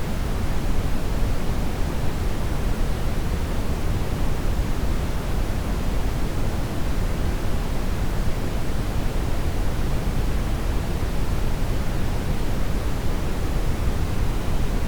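Steady brown noise: an even, unchanging rush with most of its energy in the deep low end, fading toward the highs.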